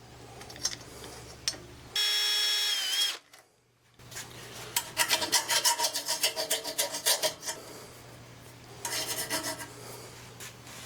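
Electric drill whining briefly as it spins up about two seconds in, then the bit cutting into the exhaust pipe in a rough, scraping rasp for about four seconds, with a second shorter bout near the end: a pilot hole being enlarged to fit an exhaust gas temperature probe.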